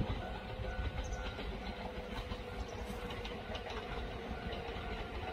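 Train running along the line: a steady low rumble with faint ticks from the wheels, and a thin motor whine that drifts slightly lower in pitch.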